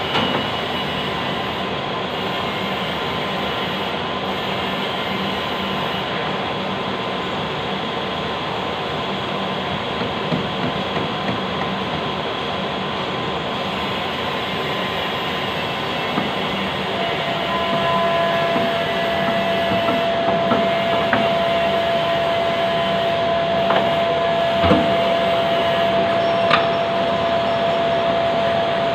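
Lathe running with a steady mechanical whirr and a steady whine. A second, lower whine joins a little past halfway, and a few sharp clinks come near the end.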